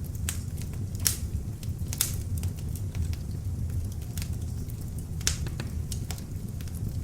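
Beech-wood log fire in an open fireplace crackling: sharp pops and snaps every second or so, the loudest about a second, two seconds and five seconds in, over a steady low rumble of the flames.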